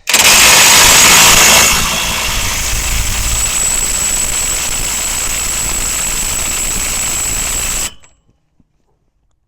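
Impact wrench spinning the front axle nut down on the hub, snugging it short of final torque. It starts abruptly, is loudest for the first couple of seconds, then runs steadily with a thin high whine before cutting off suddenly about eight seconds in.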